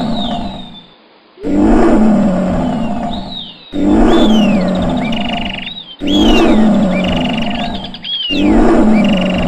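Lion roaring over and over: a long, loud roar about every two seconds, four new ones starting after the first fades.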